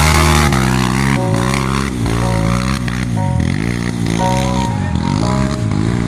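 Trail motorcycle engine revving up and down over and over, about once a second, working under load on a steep climb.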